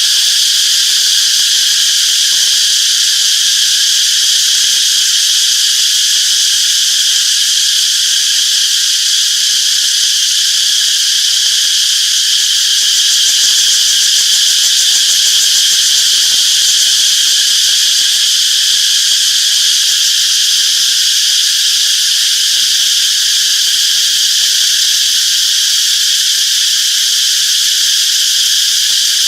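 A dense chorus of cicadas buzzing in a continuous high-pitched drone that holds steady throughout.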